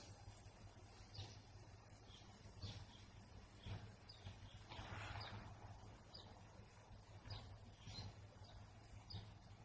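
Faint bird chirps, short and high, repeating about once a second over a low steady hum.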